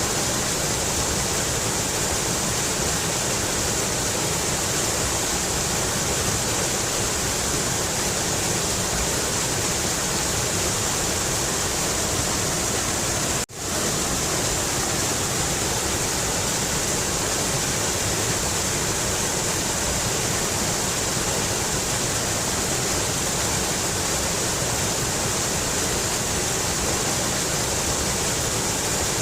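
Mountain river rushing steadily over rocks, with a brief dropout about halfway through.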